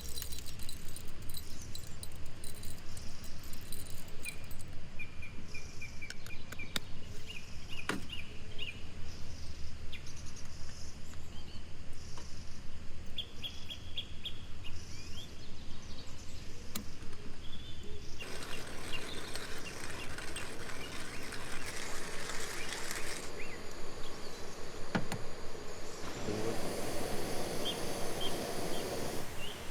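Forest ambience with small birds chirping in short repeated series, broken by two stretches of louder rustling noise, about two-thirds of the way through and near the end.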